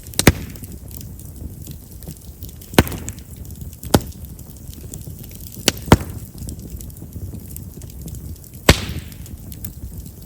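Chestnut firewood burning in an open campfire: a steady low rumble of flame with about six sharp pops and snaps as the wood bursts, the loudest near the start and two close together about six seconds in. Chestnut's large vessels make it a wood known for popping.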